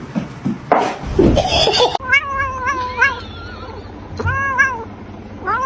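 A cat meowing over and over: about five drawn-out meows that rise and then hold their pitch, starting about two seconds in. Before that, a stretch of noise with a loud burst.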